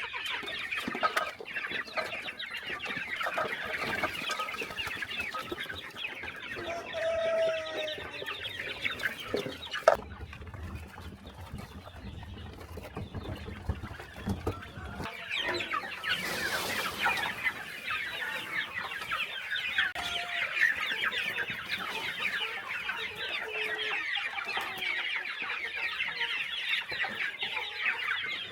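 A flock of chickens clucking and chattering together, many birds at once. The calls thin out for a few seconds about a third of the way through, when a sharp knock and a low rumble come in, then the clucking builds back up.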